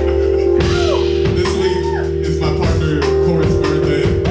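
Live band playing: a drum kit with regular hits and guitar over held low bass notes, with notes bending in pitch.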